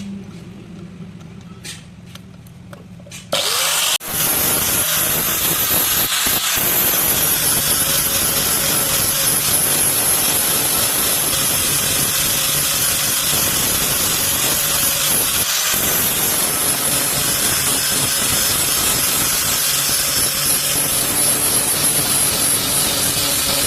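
A power grinder starts up about three seconds in and grinds steadily against the metal of a hand sickle (hasua) being made, a continuous hissing grind after a few light clicks.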